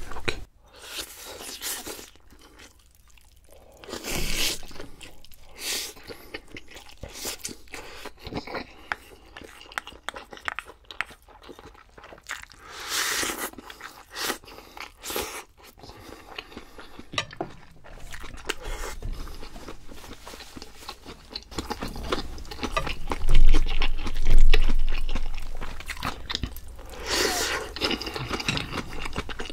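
Close-miked eating: chewing and crunching of food, with scattered small clicks and scrapes, in a series of short noisy bursts, the loudest a little past twenty seconds in.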